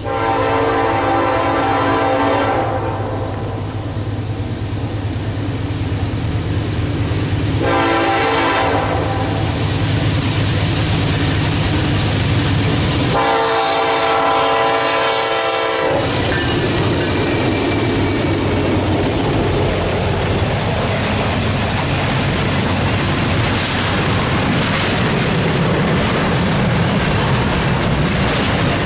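Diesel freight locomotive horn sounding three times as the train approaches: a long blast, a short one, then a longer one, over the low rumble of the engines. Then the steady rumble and wheel clatter of double-stack intermodal well cars rolling past.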